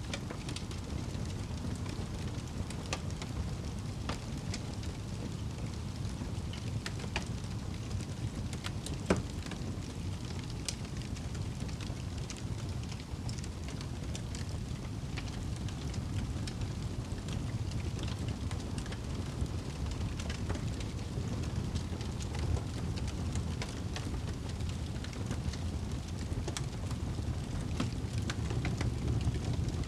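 Wood fire burning in a fireplace: a steady low rumble of flames with scattered crackles and pops, one louder pop about nine seconds in.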